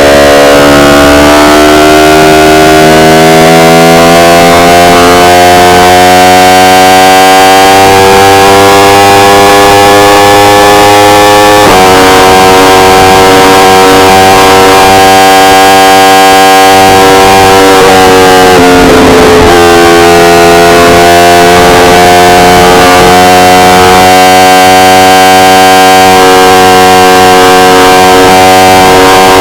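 Yamaha R1 inline-four engine pulling hard under throttle, its pitch climbing for several seconds, with an abrupt change about twelve seconds in and a brief dip and recovery near two-thirds of the way through, as at gear changes. The recording is very loud and overdriven.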